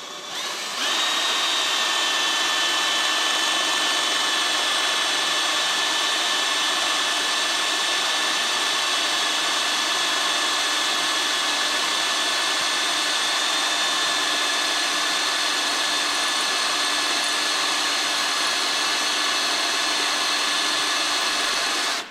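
Power drill running steadily under load for about twenty seconds, drilling out a broken bolt in the engine so it can be extracted; a steady motor whine over grinding, starting just after the beginning and cutting off near the end.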